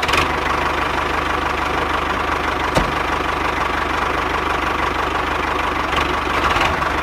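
A small engine-like machine running steadily with a fast, even knocking rhythm and a constant hum, with one sharp click about three seconds in.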